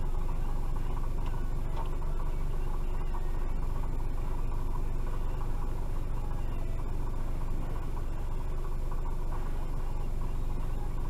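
A stationary vehicle's engine idling steadily, heard from inside its cabin as a low, even hum.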